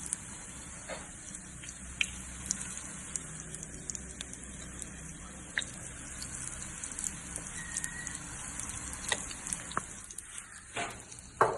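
Pakora deep-frying in hot oil: a steady sizzle with scattered crackles and pops.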